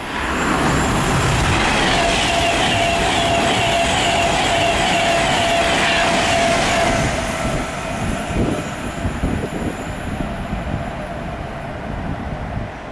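A Class 390 Pendolino electric train passing close by at high speed: a loud rush of wheel and air noise with a steady whine. It dies away after about seven seconds to a lower, uneven rumble.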